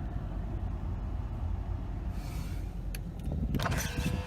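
Low steady rumble of a car idling, with a short hiss about two seconds in and a few sharp clicks and taps in the last second.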